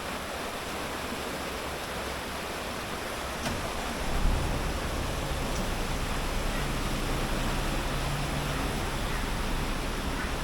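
Steady rush of flowing water, an even noise throughout, with a single thump about four seconds in and a low hum for a couple of seconds after the middle.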